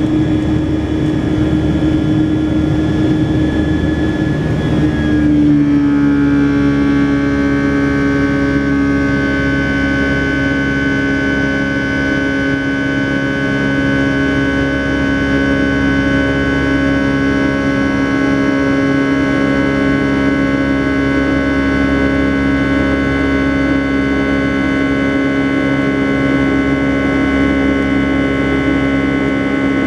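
Boeing 757-200's Rolls-Royce RB211 engines heard from inside the cabin: a steady jet drone with whining tones. About five seconds in, the tones dip slightly in pitch as the engines spool down a little, then hold steady.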